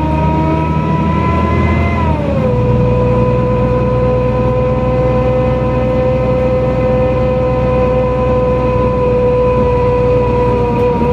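NefAZ-5299-30-51 city bus under way: a steady mechanical whine over the engine's rumble. About two seconds in, the pitch drops in one step, as at a gear change, and then holds steady.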